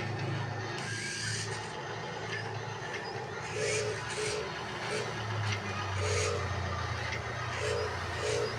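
Radio-controlled construction machine running: a steady low motor hum, with short whirring bursts about every half second to second as the loader's hydraulics or drive are worked in the second half.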